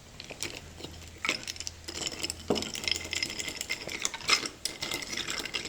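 Irregular light clinks and taps of a metal spoon and cutlery against a glass and dishes, as at a table where coffee is being stirred.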